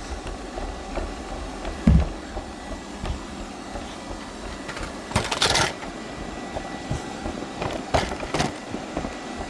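Roomba robot vacuum running, heard from a phone riding on top of it: a steady whir of its motors and brushes with a faint high tone. A low thump comes about two seconds in, a short noisy rush a little past halfway, and a few sharp clicks near the end.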